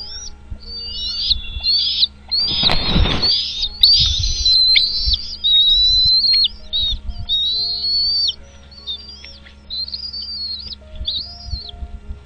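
Small birds chirping rapidly and almost without pause in high, arched calls, with a short rustling burst about two and a half seconds in. Faint background music runs underneath.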